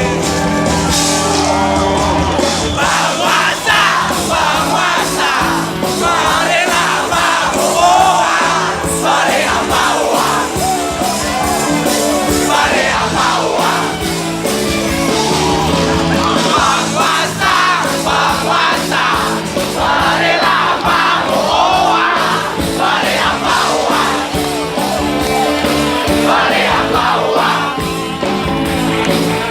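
Live rock band playing, with singing and crowd voices over the music.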